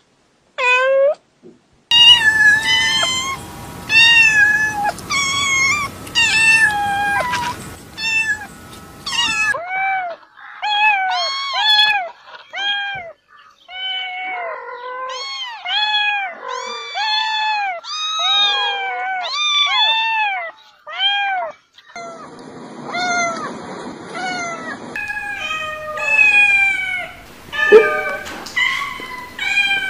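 Domestic cats meowing over and over, a string of separate clips. In the middle, many short, high meows come quickly and overlap, like several cats calling at once.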